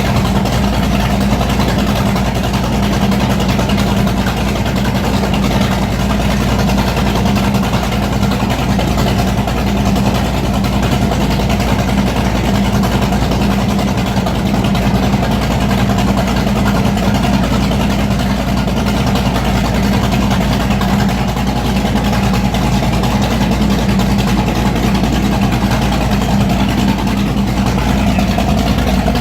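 Mercury Racing 565 hp V8 marine engine idling steadily.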